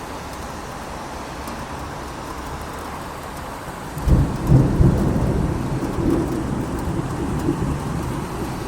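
Steady rain falling, and about four seconds in a deep rumble of thunder breaks in and rolls on.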